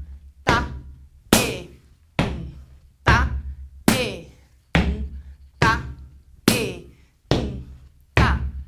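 Gumboot dance body percussion: hand slaps on the outer side of the leg, struck in an even rhythm a little faster than once a second. Each slap leaves a short falling ring, over a low steady hum.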